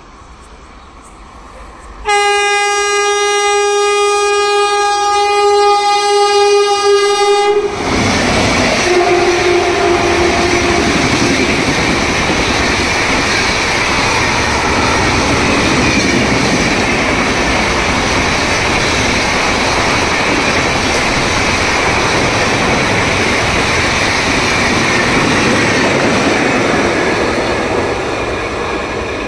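An express train's locomotive horn sounds one long blast of about five seconds as the train approaches. The express then passes through at high speed, a loud steady rush and rumble of coaches on the rails for about twenty seconds. A short, fainter horn note comes just after the long blast.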